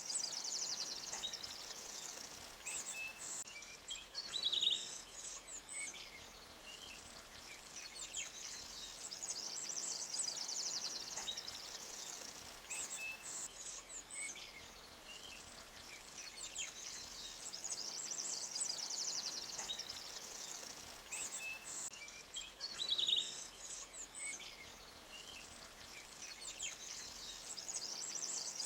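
Forest ambience: small birds chirping and calling over a steady high-pitched trill and a soft wash of a stream. Louder, sharper bird calls come about five seconds in and again near the end.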